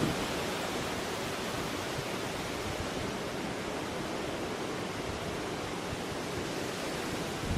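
Steady, even rushing of nor'easter storm weather, wind and water together, with no gusts hitting the microphone.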